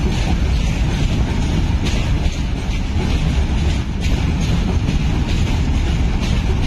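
Freight train of open box wagons rolling past at close range: a steady, loud low rumble of steel wheels on rail, with repeated clatter as the wagon wheels go by.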